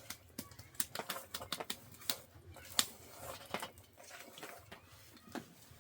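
A run of irregular sharp clicks and taps, several a second, the loudest a little before the middle.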